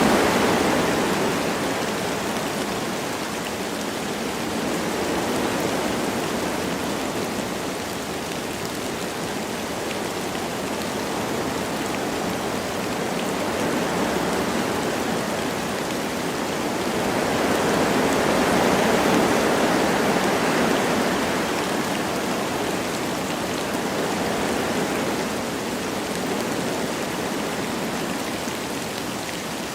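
Wind blowing through forest trees with light rain falling, a steady rushing that swells and eases in slow gusts.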